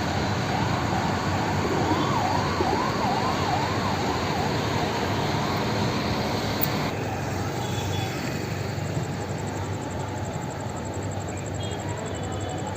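An emergency vehicle's siren yelping fast, rising and falling about twice a second and dying away about five seconds in, over steady road traffic noise.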